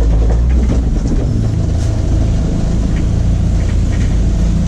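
BMW E36's engine running steadily, heard from inside the cabin, with a hiss of wind and road noise over it.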